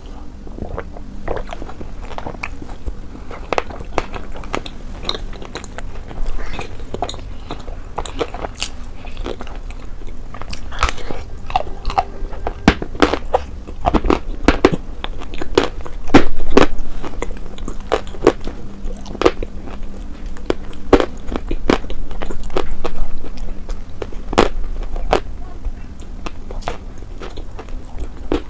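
Close-miked mouth sounds of eating mutton: wet chewing and biting with many sharp, irregular lip smacks and clicks.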